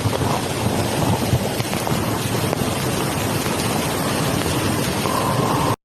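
Floodwater rushing in a steady, loud wash of noise, with wind buffeting the microphone.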